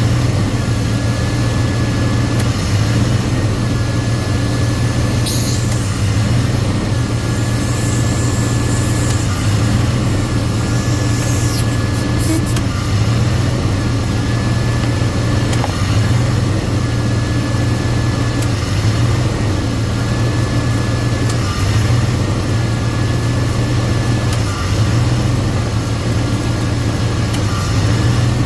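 Car engine idling with the A/C running while R134a is charged in; the A/C compressor clutch cycles on and off every two to three seconds, a whine and a change in the engine hum coming and going with each engagement, typical of a system still low on refrigerant.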